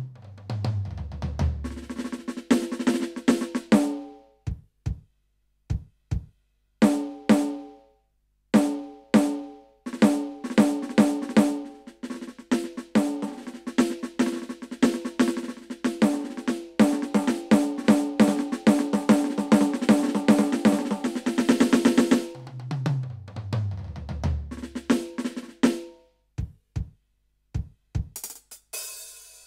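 Roland TD-17KVX electronic drum kit played through its sound module: a tom fill falling in pitch, then snare hits that build into a fast snare roll, a second falling tom fill about 22 seconds in, and cymbals coming in near the end.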